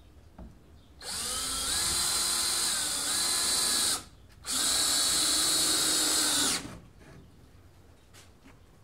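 Power drill driving screws into birch plywood, in two runs of about three and two seconds with a short pause between them, the motor's pitch dipping slightly as the screw bites.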